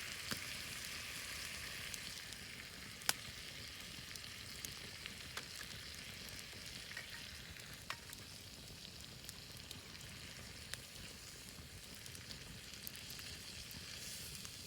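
Wood campfire burning with a steady hiss and scattered sharp crackles and pops; the loudest pop comes about three seconds in.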